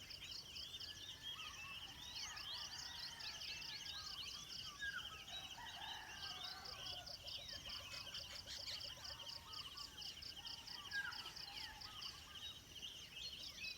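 Many small birds chirping and calling over a steady, rapidly pulsing high insect trill.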